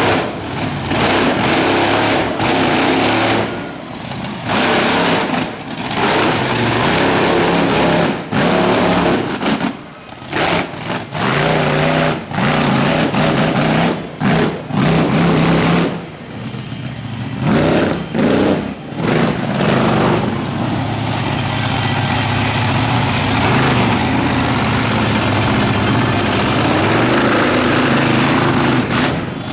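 Monster truck engine revving in repeated bursts, dropping off briefly between throttle stabs. For the last several seconds it holds a steadier run.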